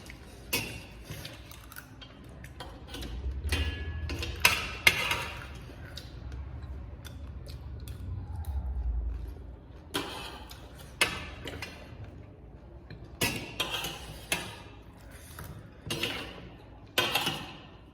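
Close-miked eating of panipuri: crisp puri shells cracking and being chewed, heard as irregular sharp crunches and clicks, with a low rumble through the middle.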